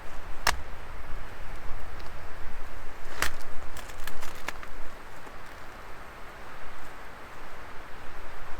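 Wood fire burning with a steady hiss and sharp crackling pops: one about half a second in and a quick cluster from about three to four and a half seconds.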